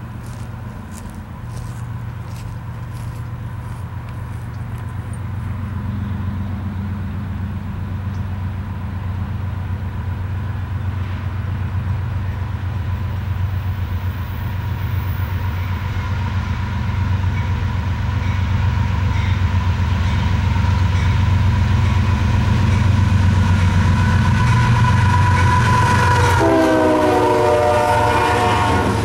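Union Pacific freight train's diesel locomotives approaching, their low engine rumble growing steadily louder. Near the end the horn sounds as the lead locomotives pass, its chord sliding down in pitch.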